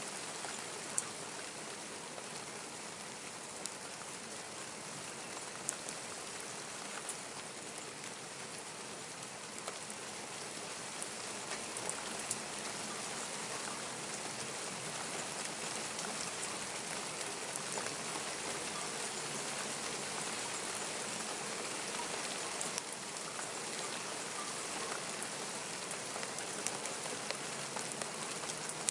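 Steady rain falling and pattering on surfaces, with scattered sharp drop ticks close by.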